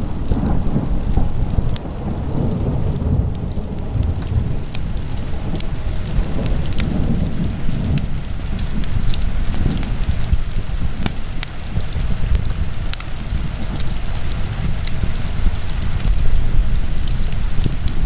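Wood fire burning in a fireplace: a steady low rumble of flames with many small scattered crackles and pops.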